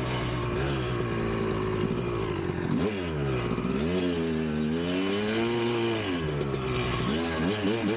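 1999 Kawasaki KX250's single-cylinder two-stroke engine revving. It runs steady at first. About three seconds in the pitch drops and then climbs, holds high and falls back, and near the end there are several quick throttle blips.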